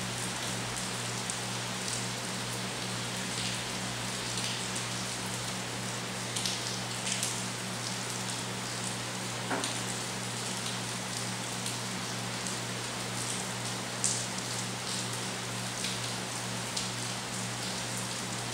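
Steady rain falling, with many separate drops ticking sharply close by over an even hiss. A steady low hum runs underneath, and a brief rising note sounds once about halfway through.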